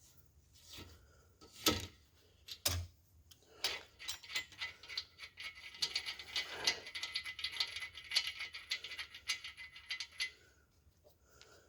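Thread tap being worked in the water pump bolt hole of a cast-iron 350 Chevrolet block, cutting fresh threads. It gives a few separate metallic knocks, then a run of rapid clicking and scraping from about four seconds in, stopping shortly before the end.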